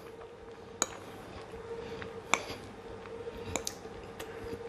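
Quiet chewing of a mouthful of soft loaded baked potato, with a few short sharp clicks, the loudest about two seconds in, over a faint steady hum.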